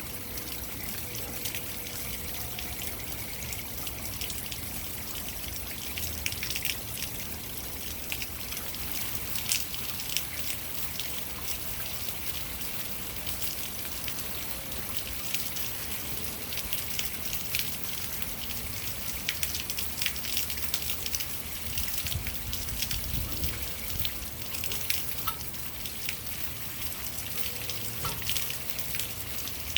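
Rainwater pouring and trickling down a rain chain: a steady, busy spatter of water with many small, sharp splashes and drips scattered through it.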